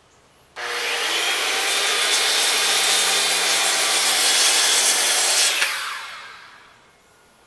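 Circular saw starting abruptly about half a second in and cutting through a wooden box for about five seconds, then the blade spinning down and fading after the trigger is released.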